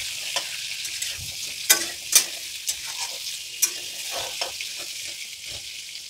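Diced pumpkin frying in hot oil in a kadhai, with a steady sizzle, while a flat metal spatula stirs the cubes, scraping and clinking against the pan; the sharpest clinks come about two seconds in and again about three and a half seconds in.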